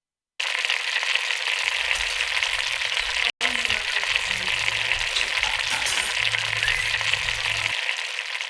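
Chile rellenos frying in hot oil: a steady, dense sizzle that cuts in abruptly, breaks off for an instant about three seconds in, and begins to fade near the end.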